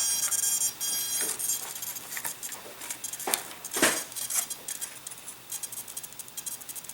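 Small clicks and taps of hands working a model aircraft's aileron linkage, with two sharper clicks a little past halfway, over a faint steady high whine.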